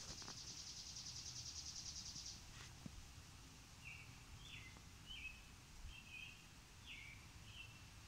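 Faint songbird calls: a rapid high trill for the first two seconds or so, then a string of short chirps from about four seconds in, some sliding down in pitch.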